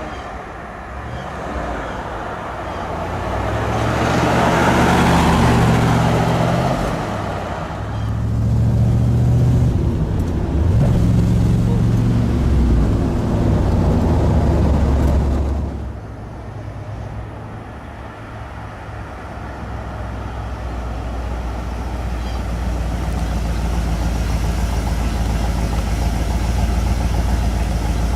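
1971 Chevrolet Corvette Stingray's V8 engine pulling hard, its note climbing and dropping back several times as it shifts through the manual gearbox. About sixteen seconds in it falls to a quieter low rumble that slowly grows louder again.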